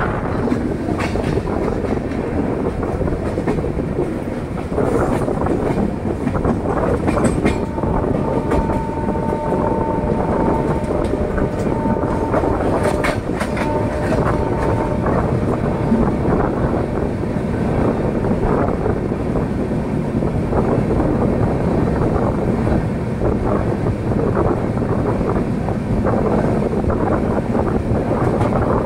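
Passenger train running, heard from on board: a steady rumble and rattle of the coaches on the track, with occasional sharp clicks of wheels over rail joints. From about eight seconds in, a horn sounds in long blasts, broken twice, for about seven seconds.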